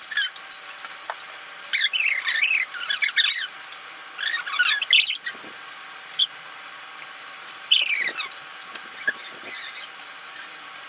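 Voices sped up to a high-pitched squeaky chatter, as in a fast-forwarded time lapse, coming in short bursts every second or two.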